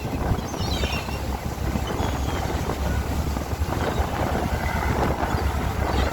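Strong wind buffeting the microphone aboard a moving boat, over a steady low rumble.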